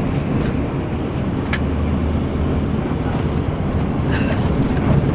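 Steady low engine and road rumble heard inside a moving intercity bus, with a couple of light rattles, one about a second and a half in and one near four seconds.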